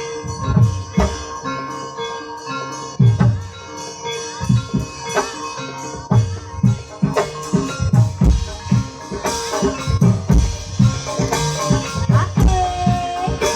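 Javanese gamelan music for an ebeg (kuda kepang) dance: kendang hand drums beat a busy rhythm over steadily ringing gong-chime tones. A held, slightly wavering melodic tone comes in near the end.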